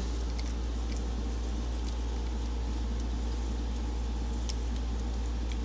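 Steady low background hum with an even hiss over it, and a few faint light clicks near the end.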